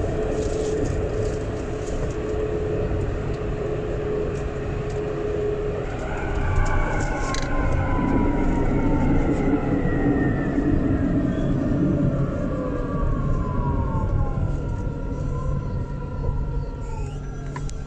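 Alstom Citadis 402 tram running with a steady rumble. From about six seconds in, several whining tones from its electric traction drive glide steadily downward as it slows for a stop.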